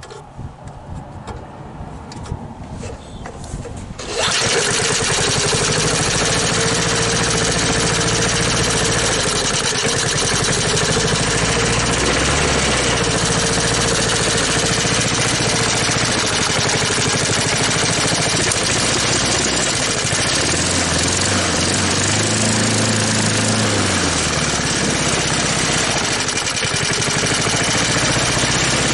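1983 Snapper mower's small petrol engine being turned over, catching about four seconds in, then running loudly, its speed dropping and rising several times.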